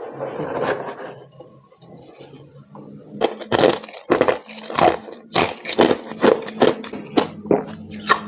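A person biting and chewing soft humidifier-grown freezer frost: a softer scraping crunch at first, then from about the middle a quick run of crisp crunches, two or three a second.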